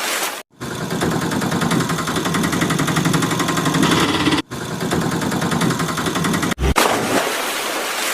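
Heavy vehicle engine running with a fast, even clatter, broken off abruptly three times by short gaps of silence.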